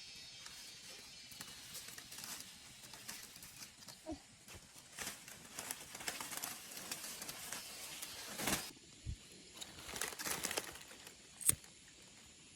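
Intermittent rustling and crackling, with a low thump and a sharp click near the end.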